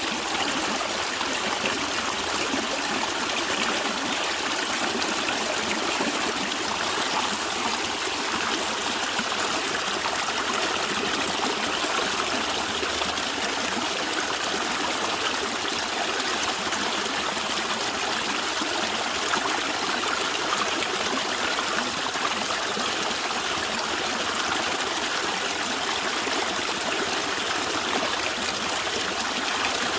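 Steady rushing and gurgling of a natural stream of running water, an even wash without breaks.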